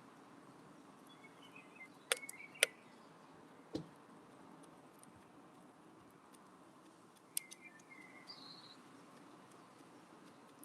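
A few sharp taps at a window bird feeder, typical of a wood pigeon pecking seed: two close together about two seconds in, one soon after and one more past the middle, with faint high chirps among them over a steady low hiss.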